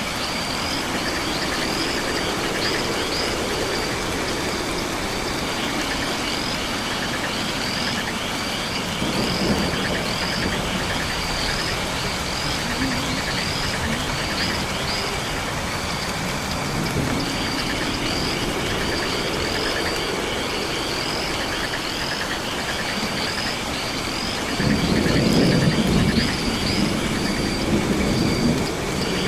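Night rainforest ambience: a steady hiss of rain under a chorus of insects and frogs, with a high chirp repeating about once a second over a dense buzzing trill. Low rumbles swell up now and then, the loudest near the end.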